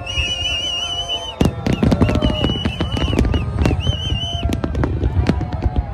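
Fireworks going off in quick succession: a dense run of bangs and crackles starts about a second and a half in, with shrill warbling whistles over it.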